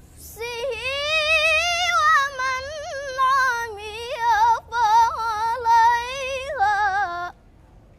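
A young girl's high voice reciting the Quran in melodic tilawa style, the pitch winding and wavering through ornamented turns. The phrase has a short break a little past halfway and stops about seven seconds in.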